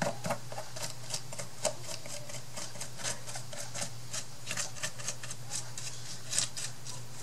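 Irregular light clicks and taps from crafting materials being handled on a work table, over a steady low hum.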